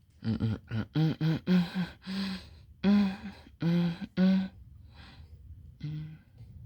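A person's voice giving a run of short excited exclamations, about eight in quick succession, then two fainter ones near the end.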